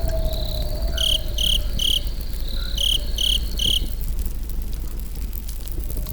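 Crickets and other night insects: a steady high trill, with a louder chirp repeated in two runs of three, about a second in and again near three seconds. Underneath, a campfire crackles with small scattered pops.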